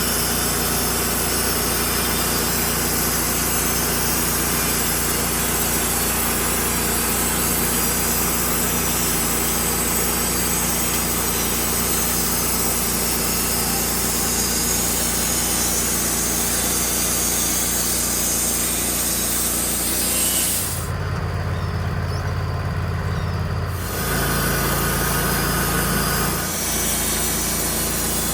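Sawmill cutting through a log: the engine runs steadily while the blade saws through the wood. About twenty seconds in, the sawing stops and the engine runs on alone, its note shifting twice.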